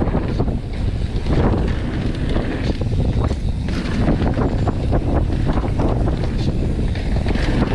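Wind rushing over a mountain biker's action-camera microphone at speed on a downhill trail, over the rumble of tyres on dirt and a steady run of small knocks and rattles from the bike on rough ground.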